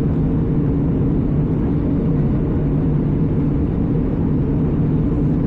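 Steady cabin drone of an Airbus A320 airliner in flight, engine and airflow noise heard from a window seat.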